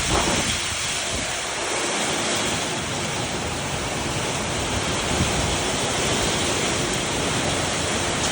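Summer rainstorm: heavy rain and wind making a steady, even rush of noise.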